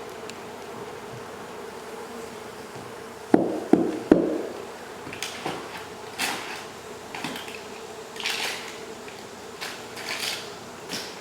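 A honey bee colony buzzing steadily, with three sharp knocks about three to four seconds in, then a run of short scraping or hissing sounds.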